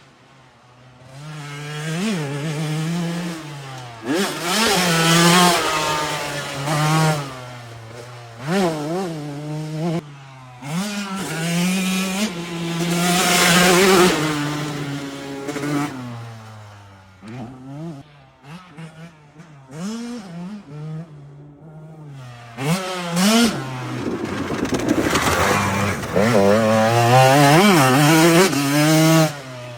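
Motocross dirt bike engine being ridden hard, its pitch climbing as the throttle opens and dropping back over and over through the gears. The sound grows loud and fades several times as the bike passes.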